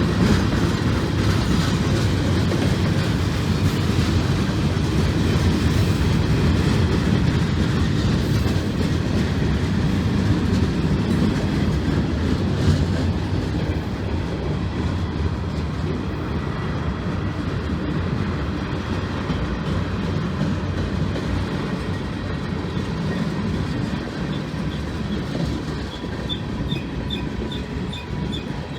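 Freight train cars rolling past on the rails: a steady, loud rumble that eases slightly in the second half. Near the end a run of short high-pitched tones repeats several times.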